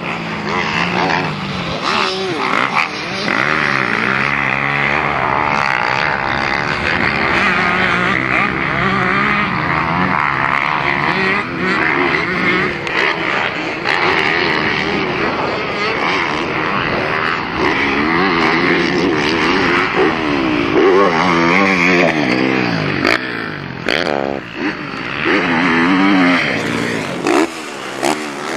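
Motocross bike engine being ridden hard around a dirt track, its pitch rising and falling again and again as the rider accelerates, shifts and backs off.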